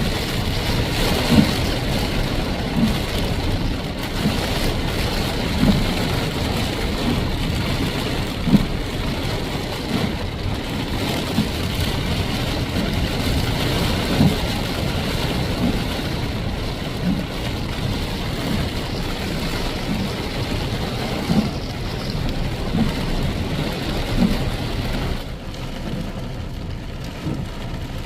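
Steady rush of heavy rain and a vehicle driving through it, with a faint low knock repeating about every second and a half. The noise eases somewhat near the end.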